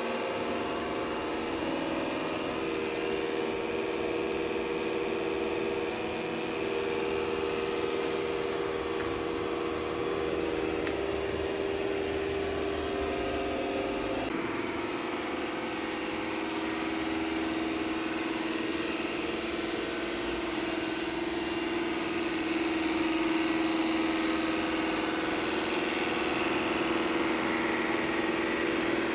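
Ecovacs T50 Pro robot vacuum running in mopping mode with a steady, tractor-like droning noise made of several held tones, which shift abruptly about halfway through. The owner takes it for an abnormal noise on the machine's first mop, with the mop discs unable to retract; customer service says the sound is normal.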